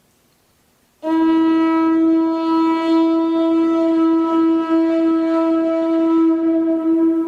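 Conch shell trumpet blown: one long, steady note that starts suddenly about a second in.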